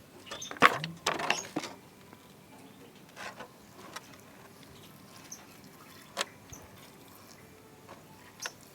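Short splashes and knocks of a lovebird being rinsed with clean water to wash off detergent, clustered in the first two seconds, then a few single sharp clicks.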